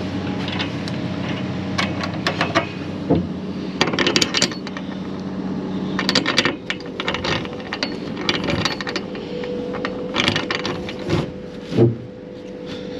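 Irregular clicks, knocks and rattles of a delivery load being handled and secured, over a steady mechanical hum.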